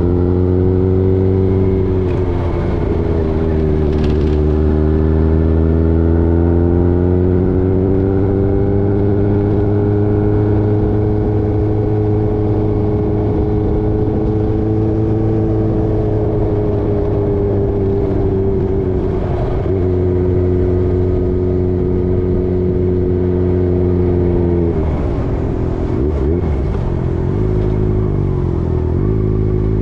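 Motorcycle engine running under way, its pitch rising and falling slowly. About 25 seconds in the pitch drops, then shifts up and down several times in quick succession near the end.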